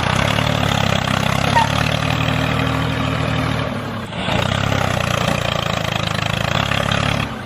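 An engine idling steadily, dropping off briefly about four seconds in and then running on again.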